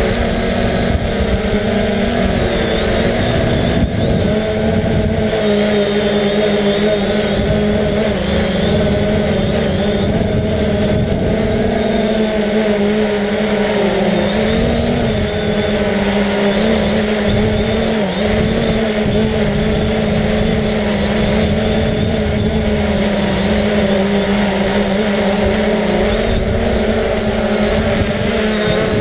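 3DR Solo quadcopter's electric motors and propellers running steadily in flight, a droning hum whose pitch wavers slightly, with a low irregular wind rumble underneath.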